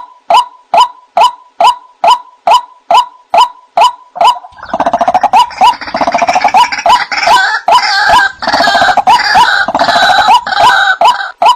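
White-breasted waterhen calling: a steady run of short single notes, about two or three a second. About four and a half seconds in, a loud, harsh chorus of overlapping chattering calls breaks out. Near the end it gives way again to the steady notes.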